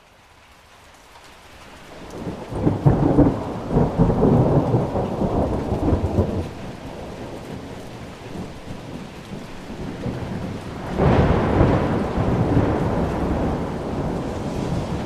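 Thunderstorm: rain falling steadily while thunder rolls twice, a long rumble building a couple of seconds in, and a second, sharper peal about eleven seconds in that fades away slowly.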